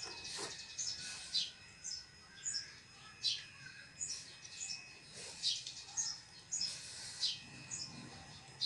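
Small birds chirping: short, high chirps repeating irregularly, about one or two a second, over a faint steady high-pitched tone.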